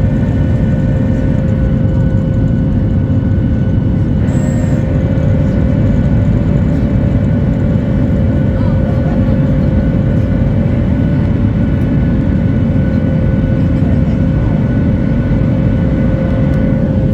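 Cabin noise of a Boeing 737-8200 in flight or on the runway: the CFM LEAP-1B turbofan engines and airflow give a loud, steady rumble with several steady whine tones over it.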